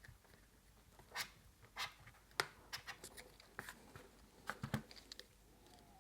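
Small metal hand tools clicking and scraping against the engine's cover and housing as they are pried loose: a dozen or so light, irregular clicks.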